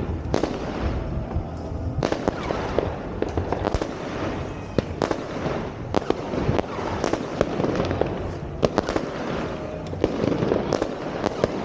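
Fireworks going off: a dense run of irregular bangs and crackling, many overlapping, with a few sharper reports standing out.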